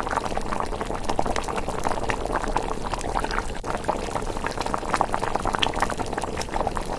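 A pot of thick miso rice porridge simmering, bubbling and popping steadily and irregularly.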